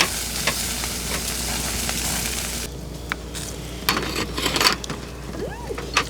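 Pork belly sizzling on a hot grill, loud for the first two and a half seconds and then suddenly much quieter. A few sharp clicks and taps follow in the second half.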